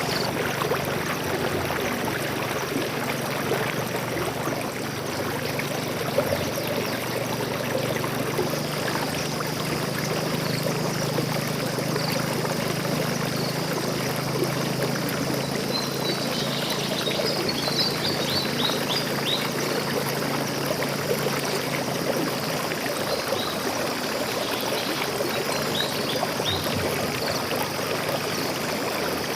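Stream water flowing and trickling steadily. Short bird chirps come through the water about halfway through and again near the end.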